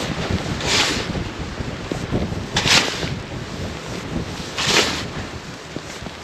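Snowstorm wind blowing across the microphone in a steady rough rush, with a louder swish about every two seconds.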